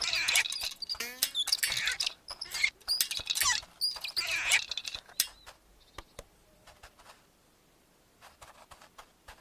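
Cartoon-style squeaky, chattering and pattering sound effects for about five seconds, with a quick rattling run about a second in, then only scattered soft clicks.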